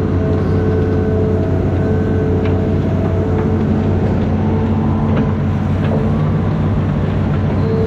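Amphibious excavator's diesel engine running steadily under load, with a whine from its hydraulics that changes pitch a few times as the machine works.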